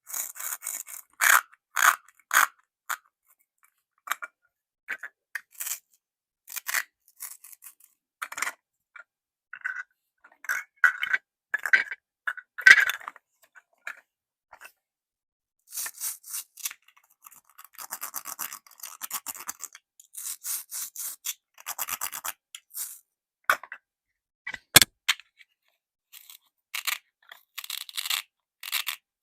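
Plastic toy fruits and vegetables being handled: irregular clicks, taps and scraping rubs of hard plastic pieces, with brief pauses and one sharp click near the end.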